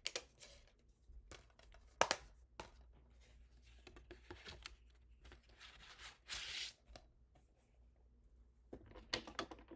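Handling a plastic DVD case and its disc: scattered clicks and taps, with a sharp click about two seconds in, a brief rustling scrape about six seconds in and a cluster of clicks near the end.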